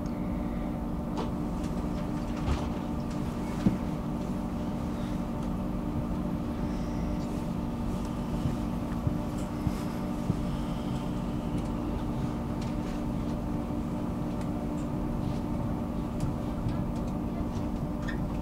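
Steady hum and rumble inside a passenger train's cabin, with a few scattered light clicks and knocks, the sharpest a little under four seconds in.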